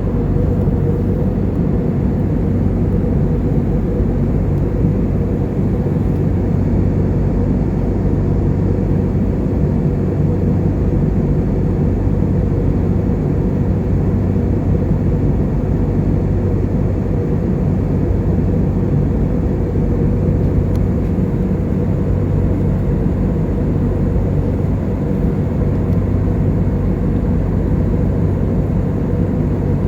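Steady engine and airflow noise heard inside a jet airliner's cabin in flight, a constant low hum under an even rush.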